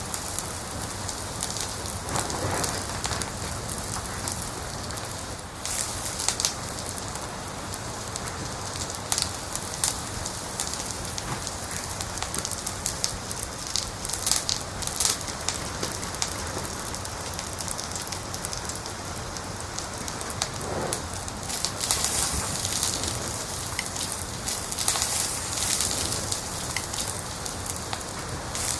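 Wood fire burning in a fireplace: a steady hiss with irregular crackles and pops, busier about halfway through and again towards the end.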